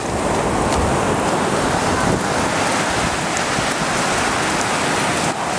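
Ocean surf and splashing water, a dense steady hiss, with wind buffeting the microphone.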